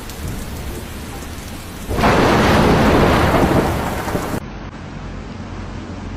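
Thunderstorm: rumbling thunder over heavy rain, with a much louder burst of thunder and storm noise about two seconds in that fades away. Just past the middle it cuts abruptly to a quieter rain-and-wind recording.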